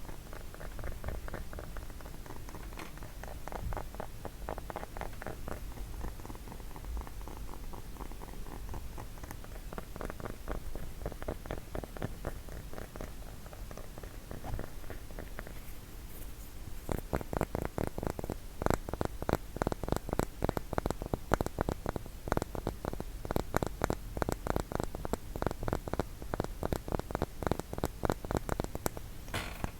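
Rapid tapping on a wooden block, a fast even stream of light clicks that grows louder and sharper a little past halfway.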